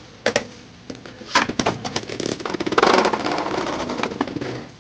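Two spinning Beyblade tops, Lightning L-Drago 100HF and Cobalt Dragoon 2-60C, clattering against each other in a plastic stadium. Scattered sharp clicks give way to a dense, rapid rattle about halfway through, which fades near the end.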